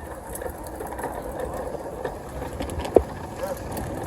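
Background chatter of many voices, with one sharp knock about three seconds in.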